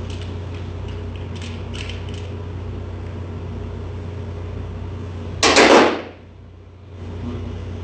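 A steady low hum with a few light clicks, then a loud half-second whoosh about five and a half seconds in.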